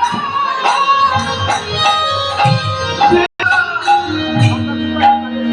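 Kirtan music: regular drum strokes and jingling percussion over steady held tones, cutting out for a moment a little over three seconds in.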